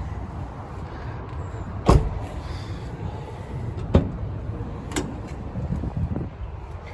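Doors of a Ford Transit van being worked. There is a loud clunk about two seconds in, then sharper knocks near four and five seconds, over a low steady rumble.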